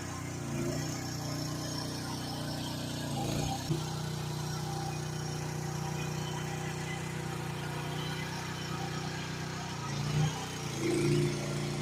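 GroundHog KH14G mini excavator's engine running steadily, its note shifting briefly about three and a half seconds in and again near the end as it works.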